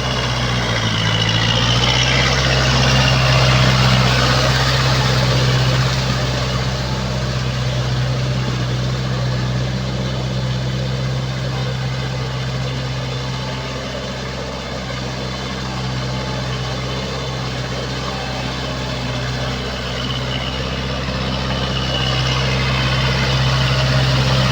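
Kubota four-wheel-drive tractor's diesel engine running steadily while working with a rotavator, with a brief dip in engine pitch about a second in. The sound grows louder for a few seconds early on and again near the end.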